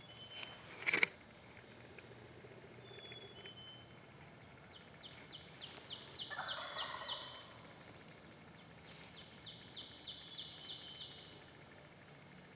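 A wild turkey gobbler gobbling about six seconds in, among songbirds calling with two long runs of rapid high repeated notes and a few short thin whistles. A sharp click comes about a second in.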